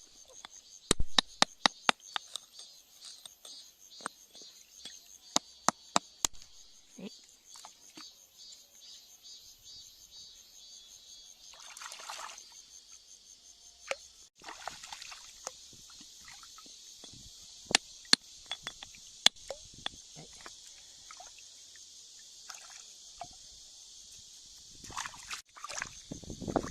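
Steady high-pitched insect chorus, pulsing in the first few seconds. Many sharp clicks come over it, thick in the first seven seconds and scattered after.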